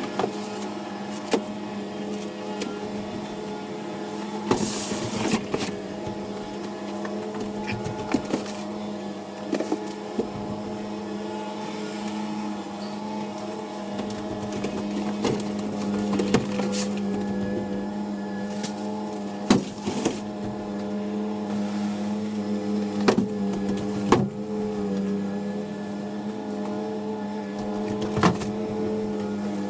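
Delivery truck running, heard from inside: a steady engine drone that shifts a little in pitch, with scattered knocks and rattles of the body and cargo.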